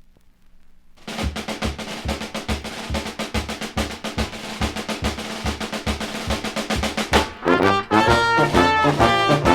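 Dixieland jazz band playing from a vinyl record: after about a second of near silence between tracks, a drum intro sets a steady beat, and the brass front line comes in about seven seconds in, louder.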